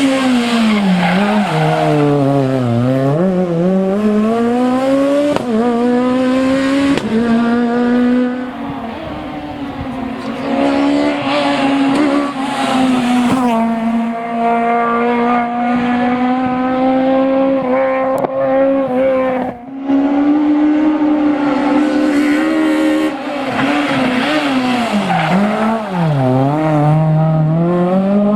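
Peugeot 206 Maxi rally car's engine revving hard: the pitch falls sharply as revs drop and climbs back several times, and it holds high and steady for several seconds in the middle with one brief cut.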